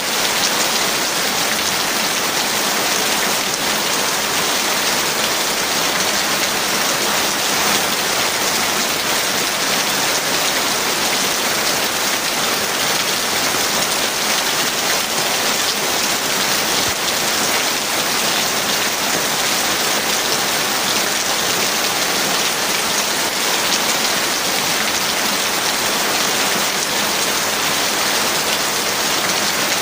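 Heavy rain falling steadily, a dense, even hiss with no thunder heard.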